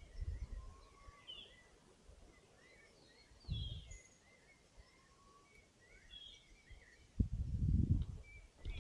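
Several forest birds calling: short high chirps and twitters, with a few thin whistled notes that rise slightly. Low thumping rumbles come in briefly a few times, and loudest for about a second near the end.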